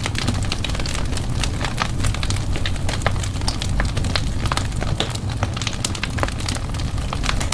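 Wood fire burning in a fireplace: a steady low rumble of the flames with many irregular crackles and pops.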